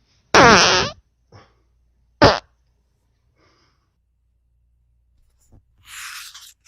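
A loud fart lasting about half a second, wavering in pitch, then a faint short one and a sharp, brief one about two seconds in. Near the end comes a soft papery rustle of a book page being turned.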